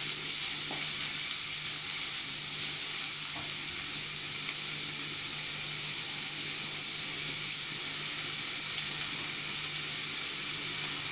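Chopped onions, green chillies, ginger and garlic sizzling steadily in hot oil in a nonstick wok, with a wooden spatula stirring them near the start.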